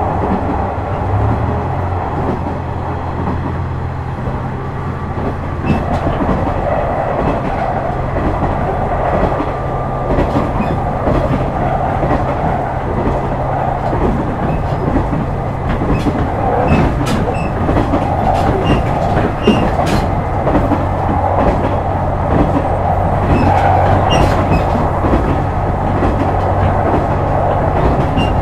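KiHa 126 series diesel railcar running, with a steady engine hum under wheels clicking over rail joints. The engine note shifts about a second in, and the joint clicks come more often from about six seconds in.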